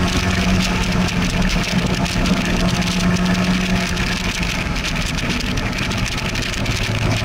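A small open-top sports car's engine pulling steadily at track speed, with wind rushing past the open cockpit; about halfway through the note drops away as the driver lifts off and the car slows for a corner.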